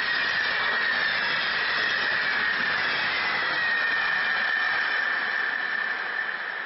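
Coaches of a locomotive-hauled passenger train rolling past on the rails, with a steady high squeal over the wheel noise that drifts slightly lower in pitch. The sound fades from about five seconds in as the train draws away.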